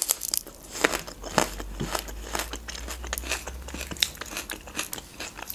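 A raw green onion stalk being bitten and chewed, with sharp, irregular crunches throughout.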